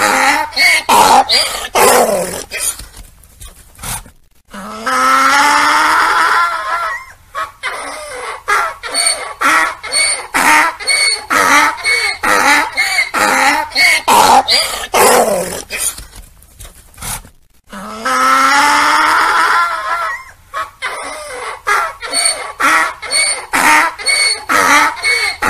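Donkey braying: repeated hee-haws in quick, rhythmic pulses, with two longer drawn-out brays about five and eighteen seconds in.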